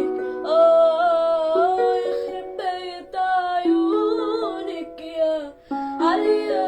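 Music: a voice singing a slow melody with held, wavering notes over a plucked string instrument.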